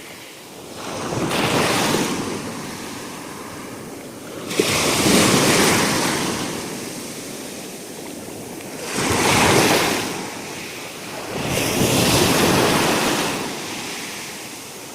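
Sea waves breaking and washing up the shore, rushing in four times and ebbing between each surge.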